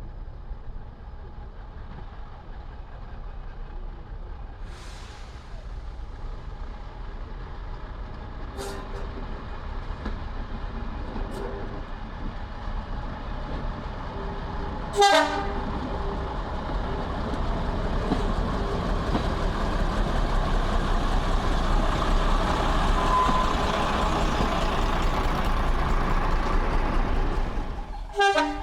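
A train running on the line, its steady rumbling noise growing louder over the second half as it draws nearer, with a sharp click about halfway through.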